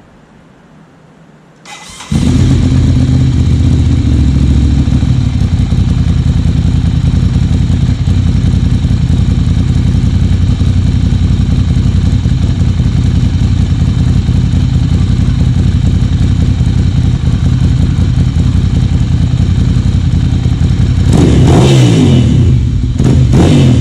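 Ducati Monster 795's air-cooled L-twin, breathing through a full titanium YRS exhaust, starts about two seconds in and settles into a loud, steady idle. Near the end it is revved in a few short blips.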